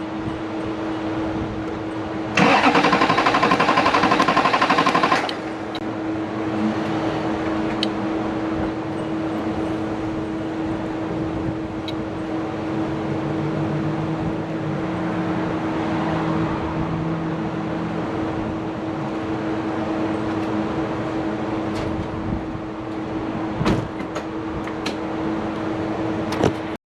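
Starter cranking the 2002 GMC Sierra 2500HD's LB7 Duramax 6.6 L V8 diesel for about three seconds, a couple of seconds in; the engine does not fire, a crank-no-start. A steady hum with a held tone runs throughout, with a single knock near the end.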